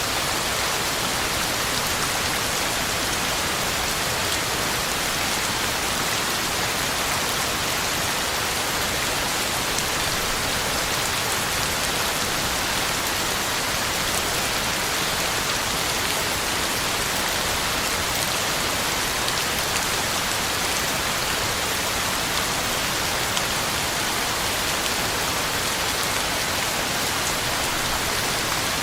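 Heavy rain falling steadily, a constant hiss of drops hitting the ground and leaves, with faint scattered ticks of single drops.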